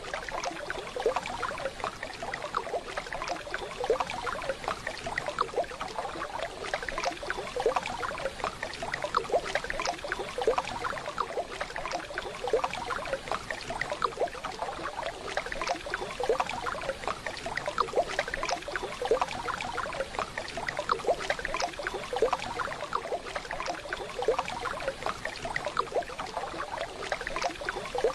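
A small waterfall running steadily: a dense, even patter of small splashes with no pauses.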